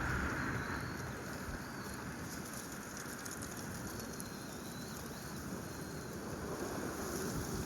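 Outdoor ambience: a steady low rumble and hiss, with faint thin high bird calls a few times.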